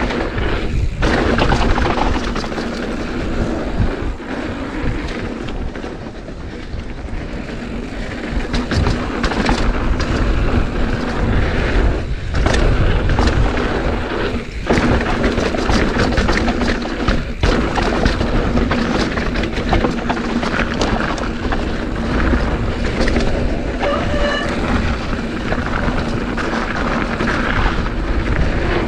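Strong wind buffeting the GoPro's microphone, mixed with the rumble and clatter of a mountain bike riding over a dirt trail.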